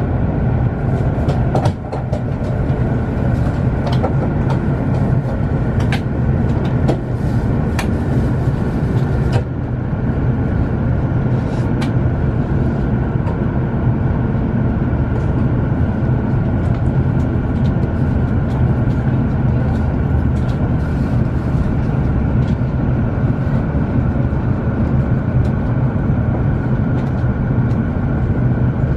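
Cabin noise aboard a W7 series Shinkansen running at low speed into its station stop: a steady low rumble with a higher hum, and scattered sharp clicks through the first ten seconds or so that then stop.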